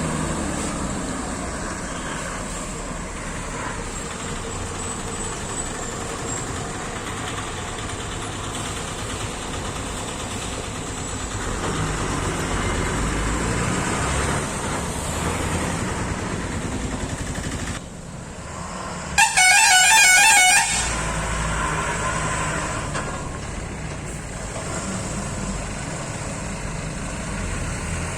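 Heavy vehicles, a bus and a loaded truck, with engines running as they climb a hairpin bend, over steady road noise. About nineteen seconds in, a vehicle horn sounds loudly for about a second and a half.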